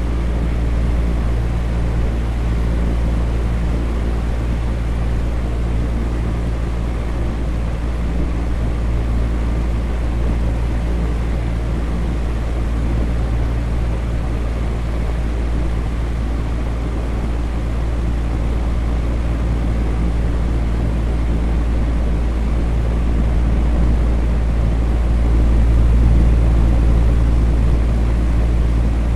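Electric fan running steadily: a low motor hum under an even rush of moving air, briefly a little louder near the end.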